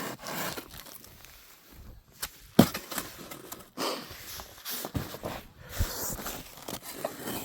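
Footsteps crunching on frozen snow and ice, an uneven series of crunches with a sharp knock about two and a half seconds in.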